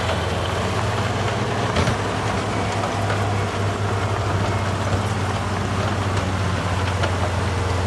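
Heavy diesel engine of earthmoving equipment running steadily with a low hum, with a light knock about two seconds in.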